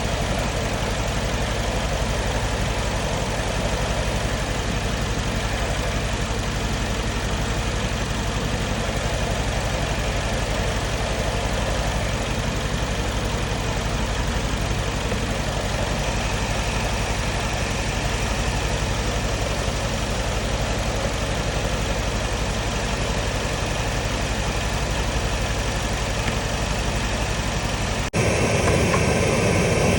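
Mercedes-AMG C63 S's M177 4.0-litre twin-turbo V8 idling steadily. Near the end the sound changes abruptly and becomes louder.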